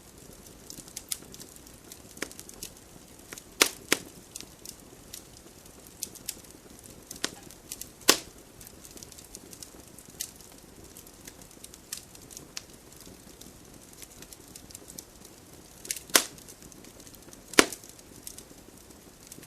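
Wood campfire crackling: a steady scatter of small ticks over a faint hiss, with a handful of sharp, louder pops from the burning wood.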